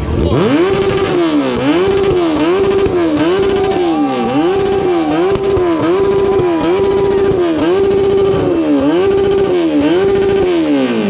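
A 1100 cc motorcycle with a loud exhaust being revved hard over and over, about once a second: each blip climbs quickly, holds briefly at the top, then drops back toward idle, some ten times in a row.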